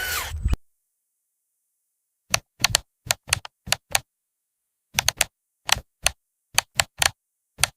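A loud, noisy mechanical running sound cuts off abruptly just after the start. After about two seconds of dead silence comes an irregular series of short, sharp clicks or taps, about fifteen in all, in small clusters of two or three.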